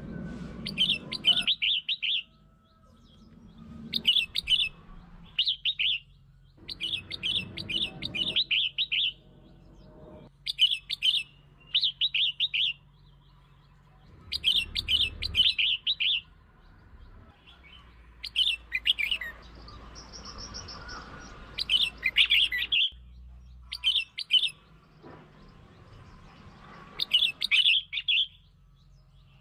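Red-whiskered bulbul singing: short, bright warbled phrases repeated every second or two, with brief pauses between them.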